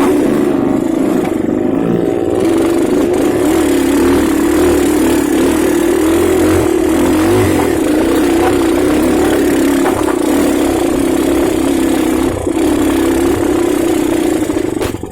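Motorcycle engine running steadily while riding, holding a fairly constant pitch that wavers slightly.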